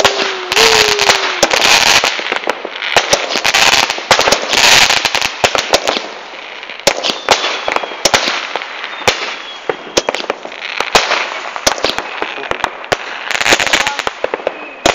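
Fireworks going off: dense, rapid crackling and sharp bangs with patches of hiss, continuing without a break. A short falling whistle sounds in the first second or so.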